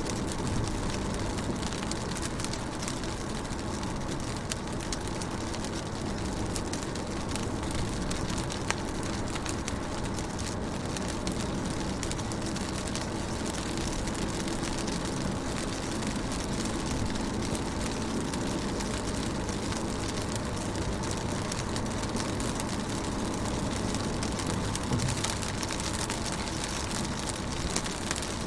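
Rain falling steadily on a car's windows and body, heard from inside the car: a constant hiss dotted with many small drop ticks over a low, steady rumble.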